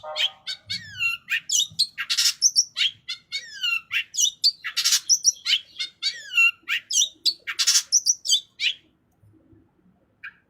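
Long-tailed shrike (cendet) singing a fast, varied song packed with mimicked phrases (isian): quick high chirps, whistles sliding downward, and a harsh rasping note every two to three seconds. The song breaks off about three-quarters of the way through, leaving only a few faint short notes.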